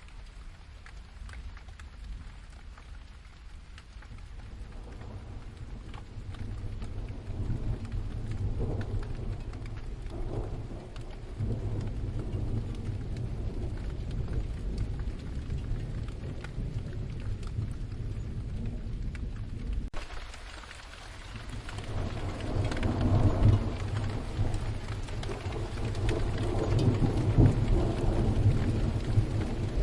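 Steady rain with low rolling thunder that swells twice, growing louder in the second half.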